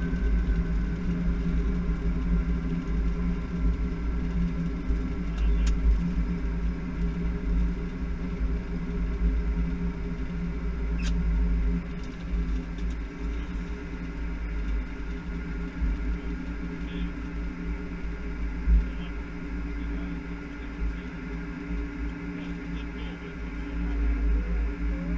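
Boeing 747-400 flight deck during the landing rollout: a steady low rumble with engine hum, and a tone falling in pitch at the start as the engines wind down. A few sharp clicks about 6 and 11 seconds in.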